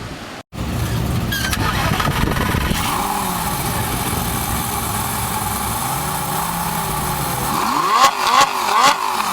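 Lamborghini Gallardo's V10 engine running and being revved, its pitch rising and falling. Near the end come several quick rev blips with sharp cracks, the loudest part.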